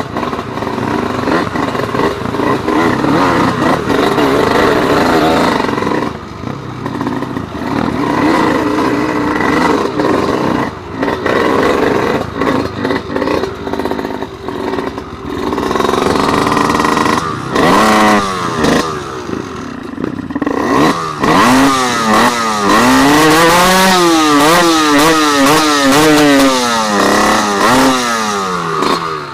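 Several dirt-bike engines running together. In the second half, engines are revved up and down again and again.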